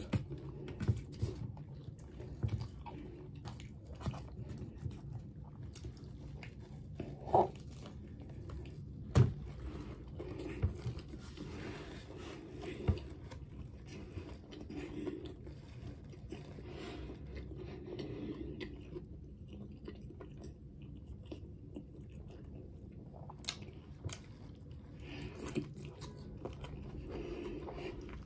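A person biting into and chewing a sub sandwich on a soft hero roll with lettuce, tomato, cheese and bread-and-butter pickles, with a few sharper crunchy bites spaced through the chewing.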